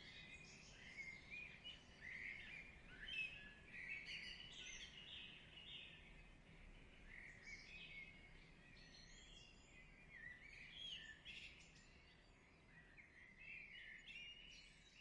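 Faint birdsong: many quick, high chirps and short trills following one another.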